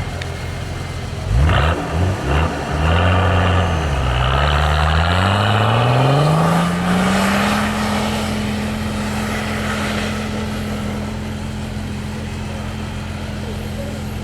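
Off-road 4x4's engine idling, blipped sharply a few times about a second and a half in, then revved up steadily over a few seconds and held at high revs, with a rushing hiss in the middle of the rev-up.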